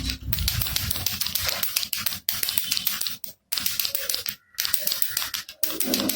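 Baby rattle shaken over and over: a dense, fast clatter of small beads against the shell, broken by a few short pauses.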